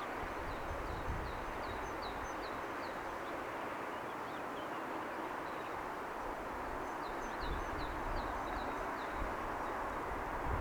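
Steady hum of distant city traffic, with a bird calling in two runs of quick high chirps: one about a second in and another about seven seconds in.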